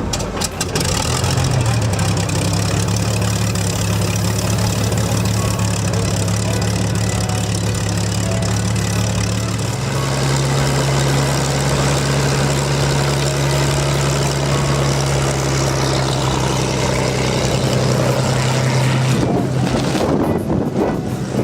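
An engine running at a steady speed, its pitch shifting about ten seconds in and the steady tone stopping near the end.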